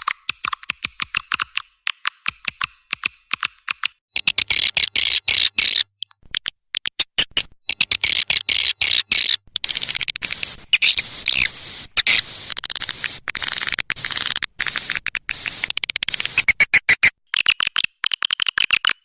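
Swiftlet calls: dense, rapid twittering chirps and sharp ticks, many per second, in sections that change abruptly as one recording cuts to the next.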